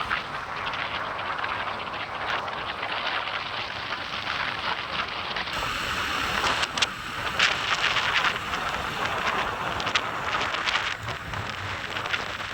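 Road traffic noise with wind rushing over the microphone, and scattered crackling clicks that grow more frequent about halfway through.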